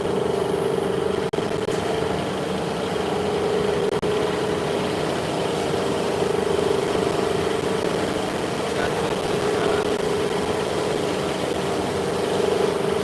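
Steady mechanical hum of running machinery, with a strong mid-pitched drone; it drops out for an instant about a second in.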